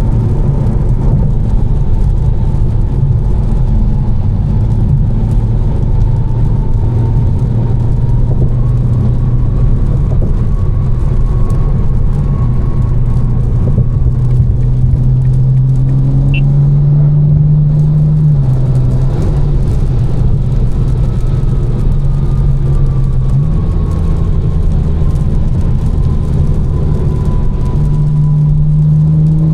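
Tuned BMW M4's twin-turbo inline-six engine droning steadily while cruising, with constant road noise. The engine note steps up about halfway through, drops back a few seconds later, then rises again twice toward the end.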